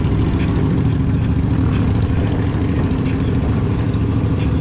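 Motorcycle engine running steadily with a loud, low rumble.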